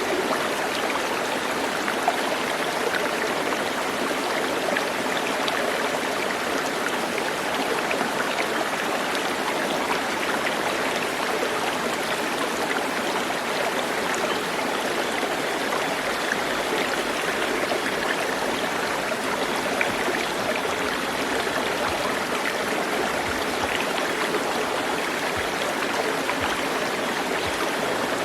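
Flowing water, a steady unbroken rush like a stream, with no clear bird calls standing out.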